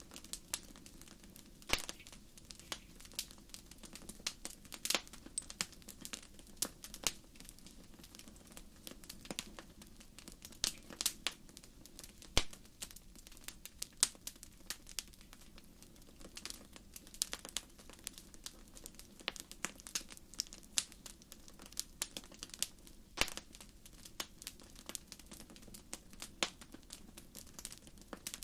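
Wood fire in a fireplace crackling: irregular sharp pops and snaps, several a second, over a low steady rush of burning.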